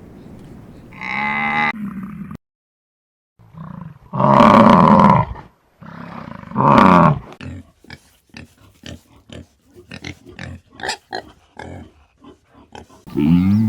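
Animal calls: after a short break, two long loud calls, then a rapid run of short calls at about three or four a second.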